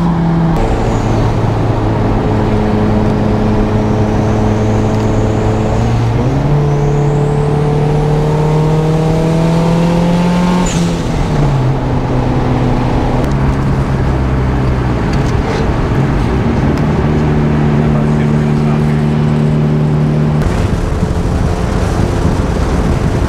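Turbocharged 1991 Honda Civic wagon's four-cylinder D16 engine running under way, loud and steady. Its pitch holds or climbs slowly, then steps down every few seconds as the driver changes gear or lifts off.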